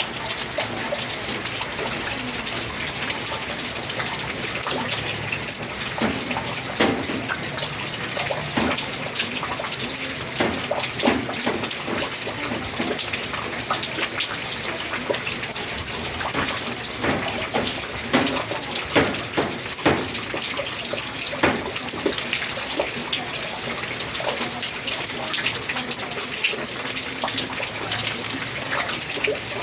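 Heavy typhoon rain pouring steadily, with water gushing and splashing, and a scatter of brief louder splashes in the middle stretch.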